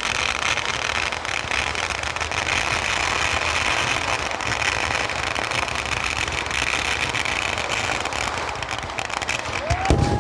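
Firecrackers going off in a dense, unbroken crackle, many reports a second, at a fireworks display. Near the end a heavy bang comes, followed by rising whistles of whistling fireworks.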